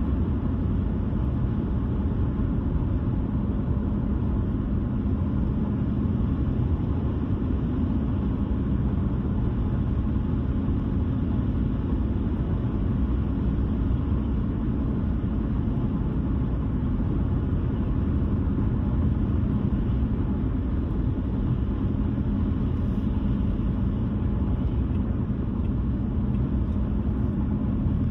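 Steady low road rumble of a car driving at an even speed: tyre and engine noise that holds level without any change in pitch.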